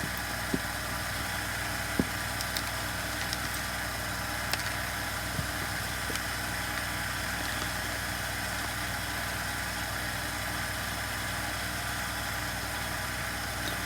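Steady low machine hum in the background, with a few light clicks and taps.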